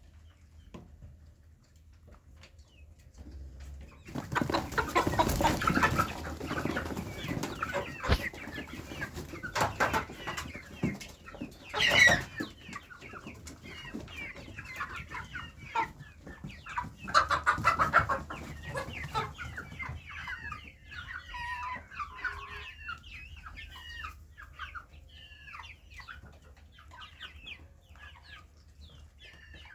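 A flock of chicks scrambling over a worm: bursts of flapping and scuffling with a sharp thump about twelve seconds in, then many short high peeps and clucks as they chase each other.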